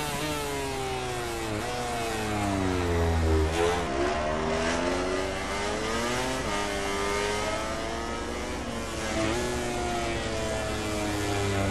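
MotoGP racing motorcycle engines at full race pace, the pitch falling over a few seconds and then climbing again, several times over, as the bikes slow for corners and accelerate out of them.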